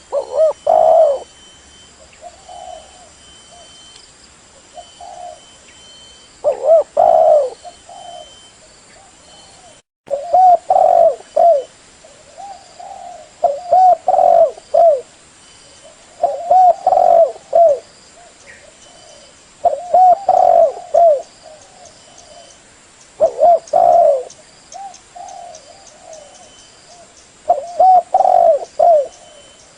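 Spotted dove (tekukur) cooing: phrases of several low coos repeated every few seconds, with a brief cut in the sound about ten seconds in.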